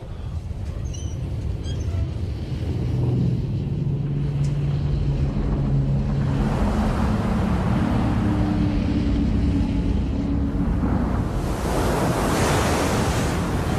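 Film sound effects of a tsunami: a low rumble of surging water that builds over several seconds and is loudest near the end, under held low tones.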